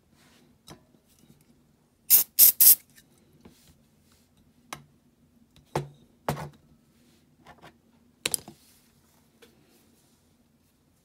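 Small diecast toy parts and hand tools handled on a workbench: scattered clicks and taps, three loud scraping bursts about two seconds in, then sharper knocks near the middle and again a little later, over a faint steady hum.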